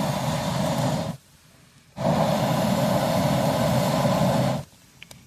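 A person blowing hard through an old TV antenna tube into a fireplace fire to fan it: long rushing blows, one ending about a second in, a full one of about two and a half seconds, and another starting at the very end, with short pauses for breath between them.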